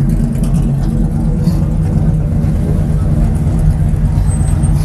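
V8 engine of a NASCAR-style stock car idling steadily, a deep, even hum with no revving.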